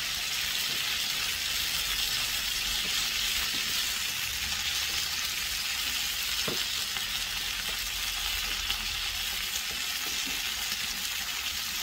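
Barbecue-sauce-basted pork spare ribs searing in hot oil in a pan, giving a steady sizzle.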